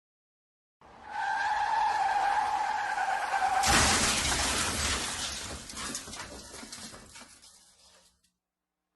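Car tyres screeching in a long skid, ending in a crash a little under four seconds in, with breaking glass and debris clattering as it fades out.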